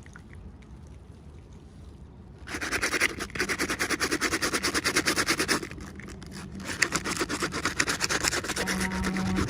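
Rapid, rhythmic rubbing or scratching, about ten strokes a second, in two bouts of about three seconds each, with a short low hum near the end.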